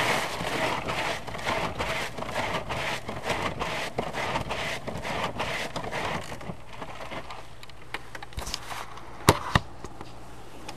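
Snow being cleared off a car windshield: a run of quick, rough scraping strokes for about seven seconds, then two sharp knocks a little after nine seconds in.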